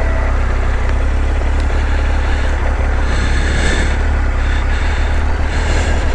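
Motorcycle engine running steadily at a low, even rumble.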